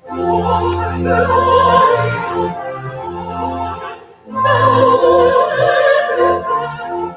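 A hymn sung with vibrato over sustained organ chords, in two phrases with a short breath about four seconds in.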